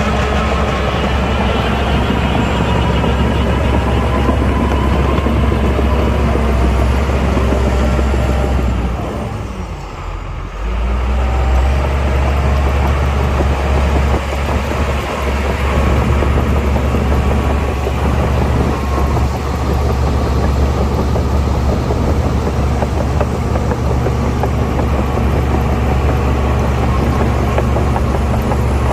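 Heavy diesel engine of earthmoving machinery running steadily under load. About a third of the way in it eases off for a second or so, then picks up again.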